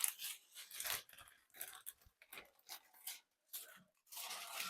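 Crinkling and rustling as a party backdrop and its packaging are handled, in short irregular bursts.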